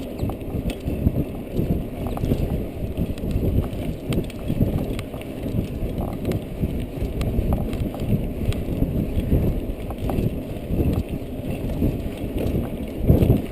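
Ride over a bumpy forest trail heard through an action camera: a constant low rumble of wind and ground noise, broken by many short knocks and rattles from bumps.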